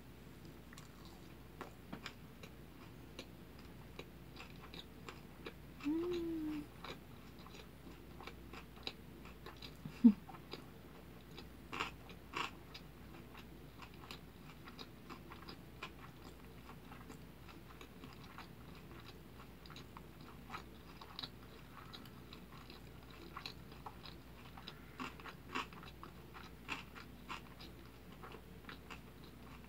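Close-miked chewing of a big mouthful of kimbap, seaweed-wrapped rice roll: soft wet mouth clicks and smacks throughout. A short pitched sound rises and falls about six seconds in, and a single sharp knock about ten seconds in is the loudest moment.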